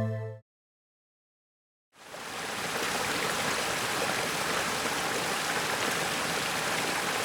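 Water jets spraying inside a dishwasher: a steady rushing and splashing that fades in about two seconds in, after the tail of the music cuts off into a moment of silence.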